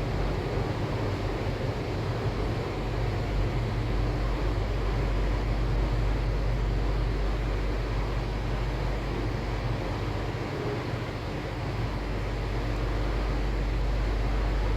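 Sydney Metro driverless train running, heard from inside the carriage: a steady rumble of wheels and running gear with a faint steady hum, the deepest rumble easing briefly about ten seconds in.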